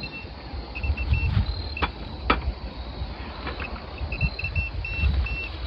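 Laser level beeping in quick groups of short high beeps, its warning that it is not yet level, while its stand is handled and adjusted with a couple of sharp clicks and low knocking.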